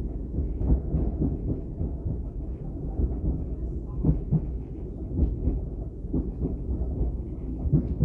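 Inside a DB class 422 electric multiple unit running along the track: a steady low rumble with irregular knocks and clunks from the wheels and car body.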